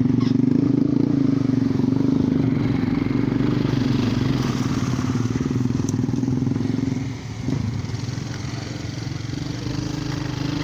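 Motorcycle engine running steadily while riding, with a brief drop in engine sound about seven seconds in before it picks up again.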